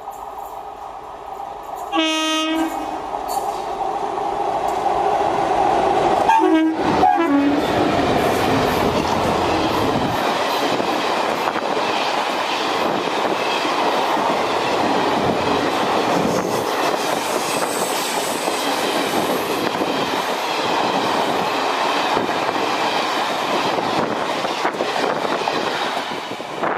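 Indian Railways electric locomotive sounding its horn twice on approach, a short blast and then a longer one that drops in pitch as it passes close. After that the passenger coaches rush by with steady wheel clatter.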